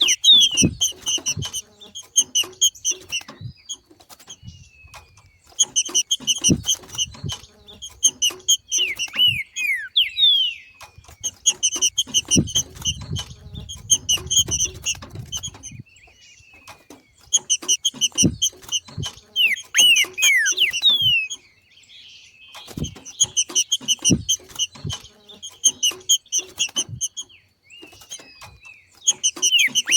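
Green-winged saltator (trinca-ferro) giving its 'macheado' call, the call of a bird coming into breeding condition: bursts of rapid chattering notes, each a few seconds long and repeated every five or six seconds, mixed with quick downward-sliding whistles. Soft low knocks come and go underneath.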